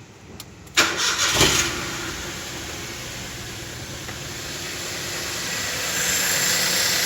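Keys clicking in the ignition, then about a second in the Maruti Alto K10's three-cylinder petrol engine cranks, fires and settles into a steady idle. It idles smoothly with no intake whistle, the leaking intake manifold seal having been cured.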